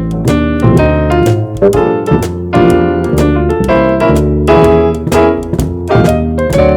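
Jazz keyboard trio playing: keyboard chords and melody notes over bass notes.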